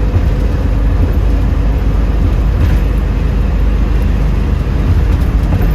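A 1972 Ford Mustang Mach 1 cruising at highway speed, heard from inside the cabin: a steady, loud low rumble of engine and road noise.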